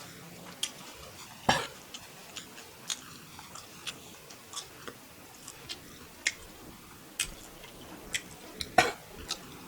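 A person chewing beef fried rice: uneven wet mouth clicks and smacks, with two louder ones about one and a half seconds in and near the end.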